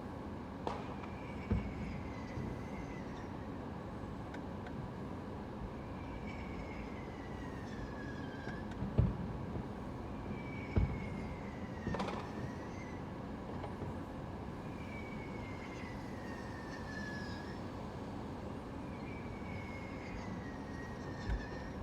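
Fireworks going off, heard as a few dull thumps and a couple of sharper cracks spread over a steady background hiss. A faint falling whistle repeats every four to five seconds.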